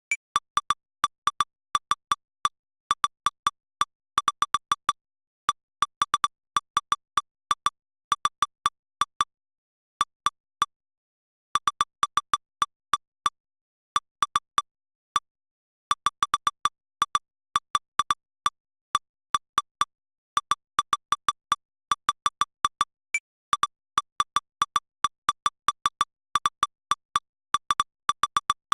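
Short electronic blips, each a brief pitched tone, coming irregularly in clusters of a few a second with occasional pauses of a second or so. They are the strike-alert sounds of lightning-detector software replaying its recorded strikes.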